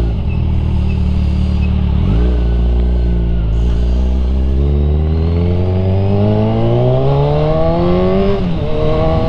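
Kawasaki Z1000R's inline-four engine through an aftermarket exhaust, running low and steady, then rising in revs for about four seconds and dropping back sharply, with a short blip near the end.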